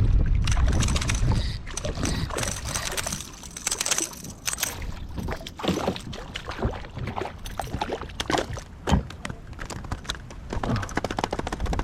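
Wind buffeting the microphone at first, then irregular splashing and slapping of choppy water against the hull of a Hobie Outback fishing kayak.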